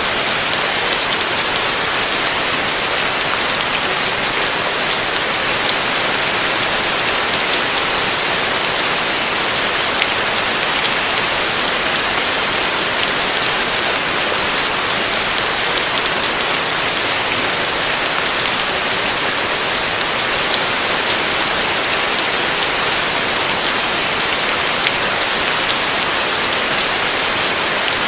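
Heavy rain falling steadily on a roof: a dense, even hiss.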